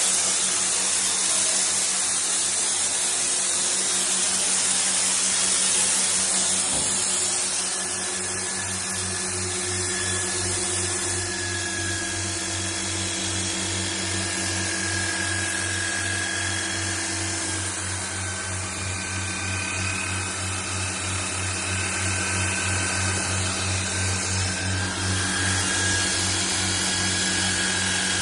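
An electric power tool running continuously, with a steady low hum and a broad grinding noise.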